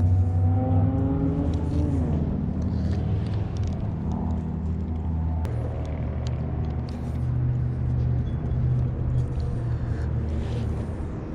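Motor vehicle engines running steadily, with one engine's pitch climbing for about two seconds and then dropping, and a change in the engine sound about five seconds later. A few small clicks over the top.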